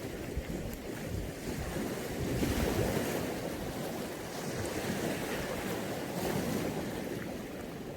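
Mediterranean sea waves washing onto the shore, a steady surf noise that swells about two and a half seconds in and again near six seconds.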